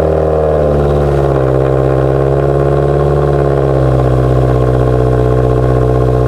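Subaru WRX's turbocharged flat-four idling just after a cold start, running steadily through a straight-through axle-back muffler delete.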